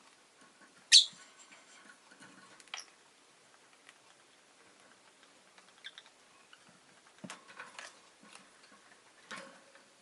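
Rosy-faced lovebird giving one loud, sharp, high-pitched chirp about a second in, followed by scattered short, faint chirps and clicks.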